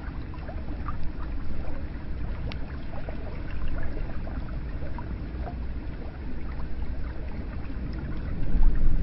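Hot spring water flowing and splashing into a bath: a steady wash of water with scattered small drips and a low rumble that swells near the end.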